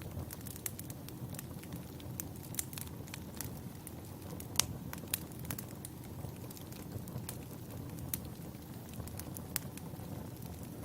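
Burning firewood in a campfire: a steady low rumble of flames with frequent sharp crackles and pops from the wood, the loudest pop about halfway through.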